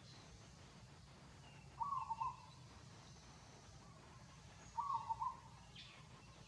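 A bird calling: a short call of a few quick notes, twice, about three seconds apart, with fainter high chirps from other birds.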